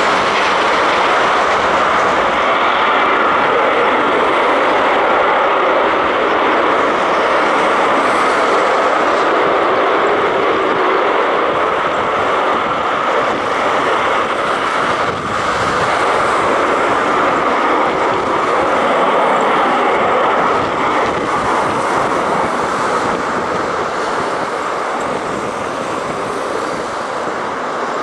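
Military aircraft engines running loud and steady, a dense rushing noise that eases off a little toward the end.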